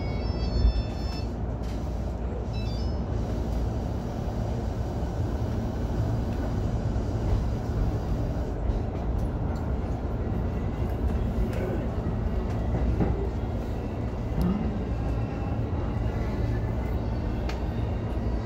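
Keihin-Tohoku Line E233-series electric commuter train, heard from the cab: a station chime melody finishes in the first second or so, and a short chime sounds again a couple of seconds in, over the train's steady low running rumble.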